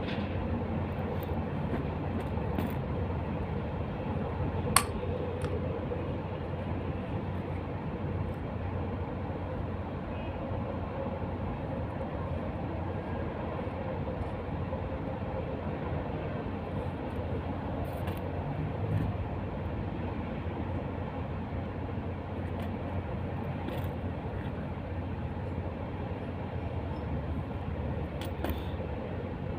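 Steady low mechanical drone, with a few sharp clicks or knocks on top, the loudest about five seconds in.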